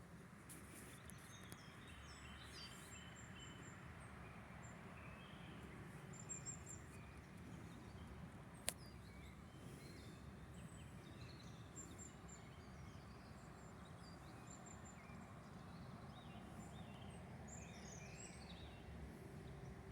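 Faint outdoor evening ambience with birds chirping and warbling now and then over a steady low background hum; a single sharp click about nine seconds in.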